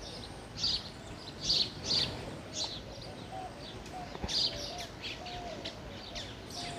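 Birds chirping: a scattered run of short, high chirps over faint outdoor background noise.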